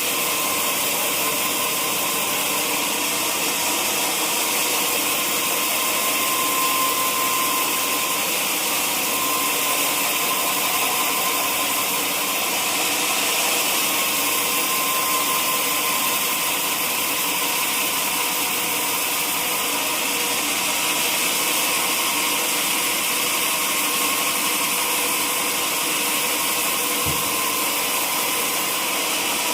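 Sawmill saw running steadily with an even, unbroken noise and a faint steady whine.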